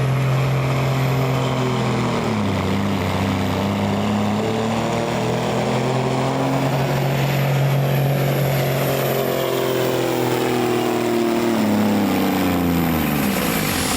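Pulling vehicle's engine running hard under load with a high whine above it. Its pitch steps down about two seconds in, then falls slowly and drops away near the end.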